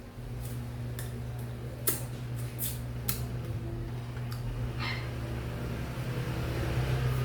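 A steady low machine hum begins just after the start, with a few sharp clicks and clatters over it in the first half.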